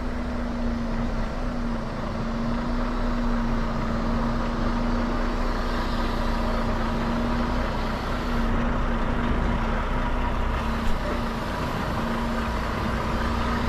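Semi truck's diesel engine running steadily at low revs during slow backing manoeuvres, a constant drone with one steady hum over a low rumble. A single brief sharp knock sounds late on.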